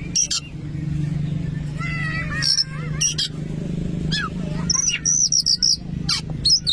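Oriental magpie-robin (kacer) singing: loud sharp chirps and whistled phrases, with a quick run of about half a dozen repeated high notes near the end, over a steady low hum.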